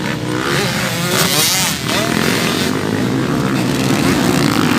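Motocross dirt bike engines running loud and revving, the pitch rising and falling in the first couple of seconds.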